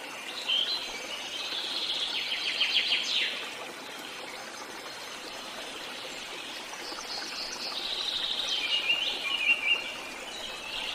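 Birds chirping in two spells of rapid high chirps and trills, the first about half a second in and the second about seven seconds in, over a steady background hiss.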